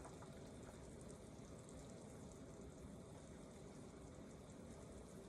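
Faint, steady bubbling of a pot of chicken soup with macaroni boiling on the stove.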